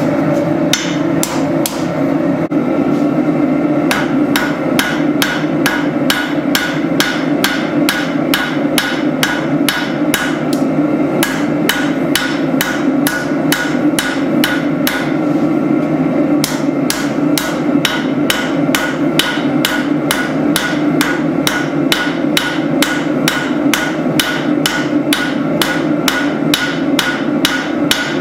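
Hand hammer striking hot spring steel on an anvil while forging a blade, a steady run of sharp blows at about two to three a second, over a steady low rumble.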